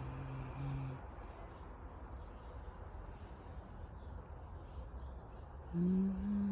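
A bird repeating a short, high, falling chirp over and over, about one and a half calls a second. A woman's low humming, a few held notes, is heard in the first second and starts again near the end.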